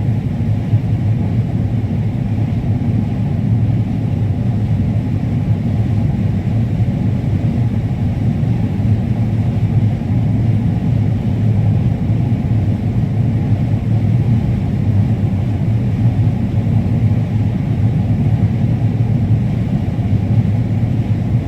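Combine harvester running steadily while it harvests corn, an even, unbroken low drone of engine and threshing machinery.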